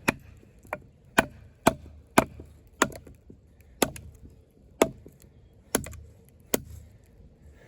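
Batoning: a wooden baton striking the protruding tip of an Off-Grid Caiman XXL bowie knife whose blade is wedged in a thick piece of wood. There are about ten sharp knocks at an uneven pace, roughly one every half second to one second.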